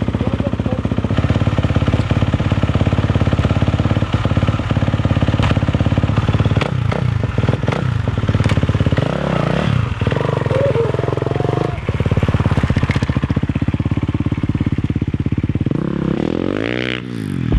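Dirt bike engine running hard on a motocross track, revving up and down through the throttle and gear changes.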